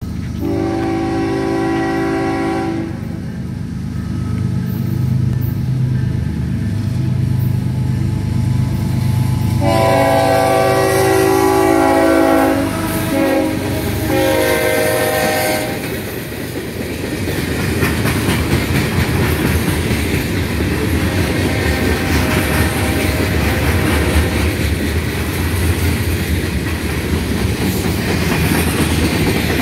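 Freight train led by two GE ES44 diesel locomotives: the air horn sounds a long blast at the start and then a series of blasts from about ten to sixteen seconds in, over the low rumble of the locomotives' engines. After that, the freight cars roll past with a steady rumble and clatter of wheels on the rails.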